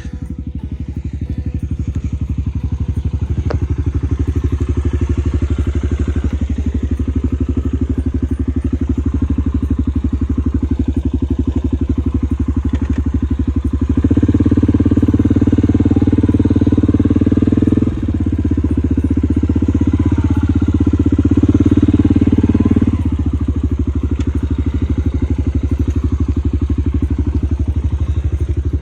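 Small vehicle engine running as it is driven, steady at first, then louder for several seconds from about halfway through, with a brief dip, before settling back.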